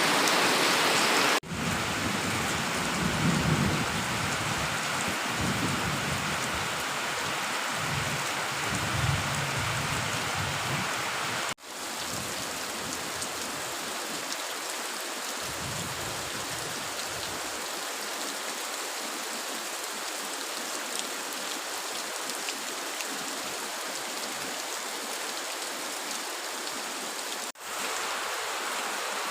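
Heavy rain falling steadily, a dense even hiss, with patches of low rumbling through the first ten seconds or so. The sound cuts out for an instant three times.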